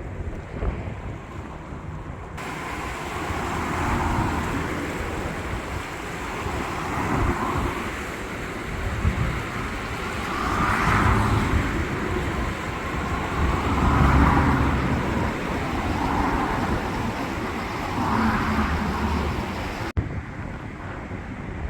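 Road traffic: vehicles passing one after another, each swelling and fading over a low rumble.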